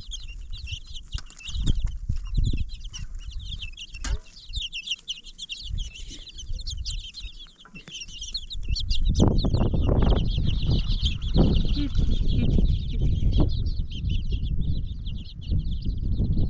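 A flock of chickens keeping up a dense chorus of short, high chirps. Low rumbling knocks join in from about nine seconds in.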